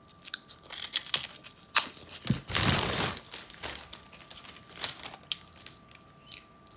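Plastic packaging crinkling and rustling as it is handled, with scattered short crackles and one longer rustle about halfway through.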